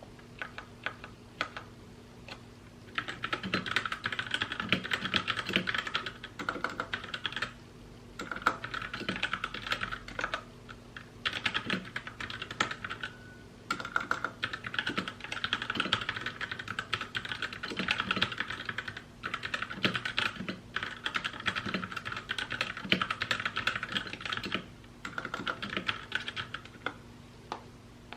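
Typing on a mechanical keyboard: fast runs of keystroke clicks broken by short pauses, starting about three seconds in.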